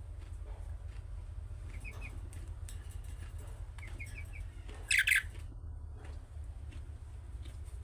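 Budgerigar chirping in short, soft twitters, with one much louder, sharp call about five seconds in, over a steady low hum.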